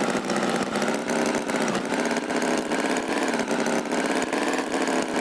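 Tractor engine sound effect running steadily with a fast, even pulsing.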